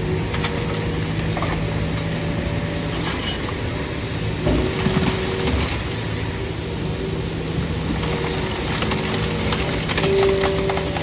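Idromec T650 scrap metal shear baler working: a steady hydraulic hum with scattered metallic clanks and crunching of scrap metal, busiest about halfway through and again near the end.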